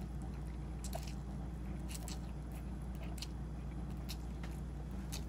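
A person chewing a mouthful of ramen noodles, with scattered short wet mouth clicks, over a steady low hum.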